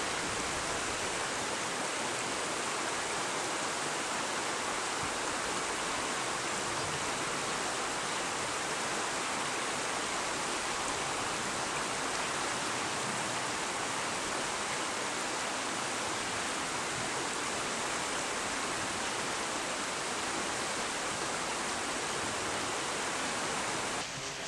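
Steady rushing of flowing river water, an even unbroken hiss.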